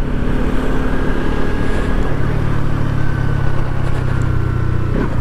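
Bajaj Pulsar NS200 single-cylinder engine running at a steady cruising throttle, with wind rushing past; the engine note steps up slightly about two seconds in.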